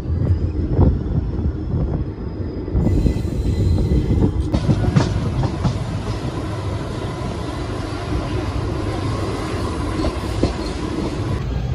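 Indian Railways passenger train rolling out of a station, heard at the coach's open side: a steady rumble of wheels on rails with irregular clicks and knocks over rail joints and points. A faint high wheel squeal runs through the first few seconds.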